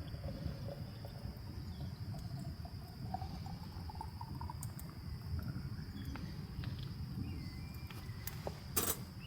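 Insects trilling steadily, a high unbroken note like crickets at the end of summer, over a low steady rumble. A short sharp knock comes near the end.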